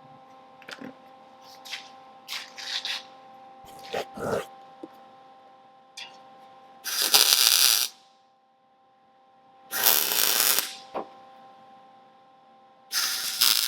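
MIG welder stitch-welding thin-wall exhaust tubing: three crackling, hissing bursts of about a second each, the first about seven seconds in, the others near ten and thirteen seconds, between small clicks and knocks of the work being handled over a steady machine hum.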